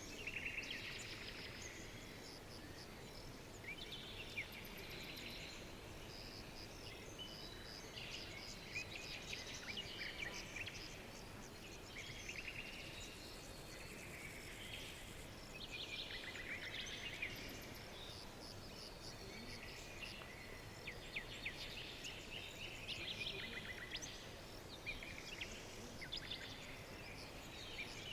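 Several small birds chirping and trilling continuously, with many overlapping short calls, over a faint steady background hiss.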